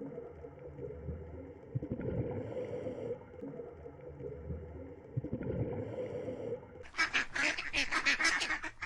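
Ducks quacking. A lower, steadier stretch gives way about seven seconds in to a dense run of rapid, overlapping quacks.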